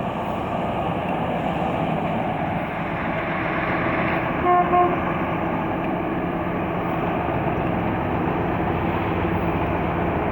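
A car driving, with steady road and wind noise, and two short horn beeps about four and a half seconds in.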